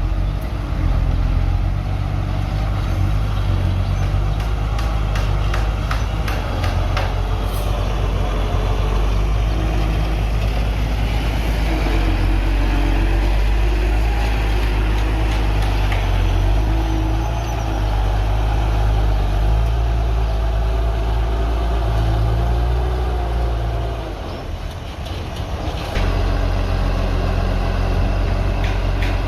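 Diesel engine of heavy earthmoving machinery running under load, with rapid metallic clanking in the first few seconds and a wavering squeal through the middle. The engine eases off briefly near the end, then picks up again.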